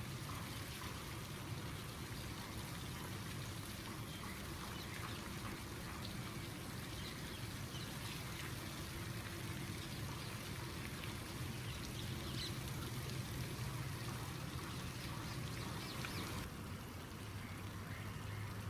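Steady trickling and splashing water, over a low hum; the splashing hiss drops away near the end.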